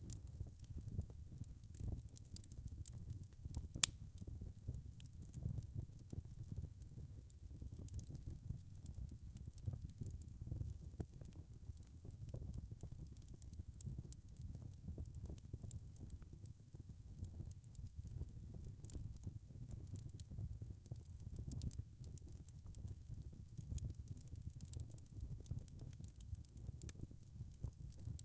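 Wood fire crackling steadily, with many small pops and snaps over a low rumble of flames, and one sharper pop about four seconds in.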